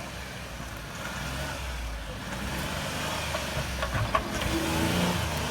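A four-wheel-drive vehicle's engine running on a trail, growing louder toward the end, with a few sharp knocks about four seconds in.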